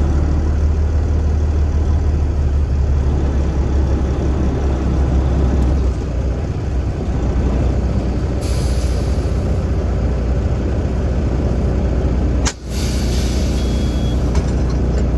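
Semi truck's engine running with a steady low rumble, heard from inside the cab. A hiss of air comes about 8 seconds in, then a sharp click and a louder hiss of air from the air brakes near the end.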